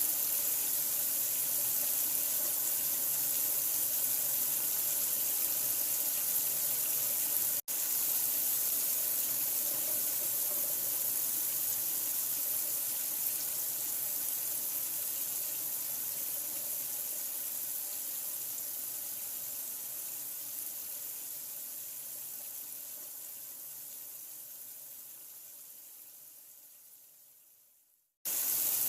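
Steady rushing of running water, like a tap running into a sink, played as a continuous sleep-soothing sound. It drops out for an instant about a quarter of the way in, fades away over the last several seconds, and starts again abruptly right at the end.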